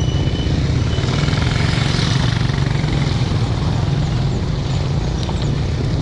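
Steady rush of wind buffeting an action camera's microphone while riding a mountain bike, with the low rumble of the tyres on a rough trail.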